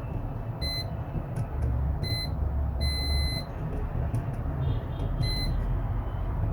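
An electronic beeper sounding four short high beeps at uneven intervals, the third held about half a second, over a steady low hum.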